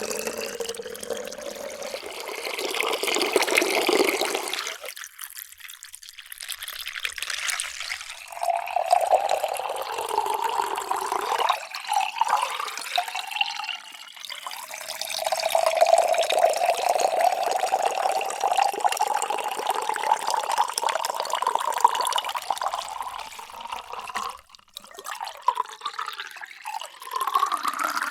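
Water being poured into a vessel in several separate pours, with short breaks between them. The gurgling tone rises in pitch as each vessel fills, climbing most steeply near the end.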